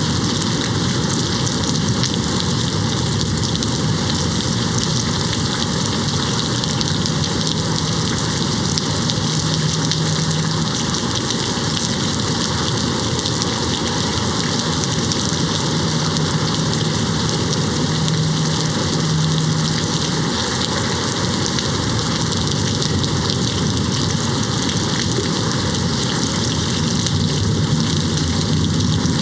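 Steady rain hitting a window, an even, unbroken patter.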